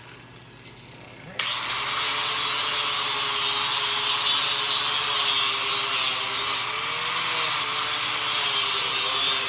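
Electric grinder switching on about a second and a half in and grinding steel steadily, a hissing scrape over a motor whine that sags and recovers under load.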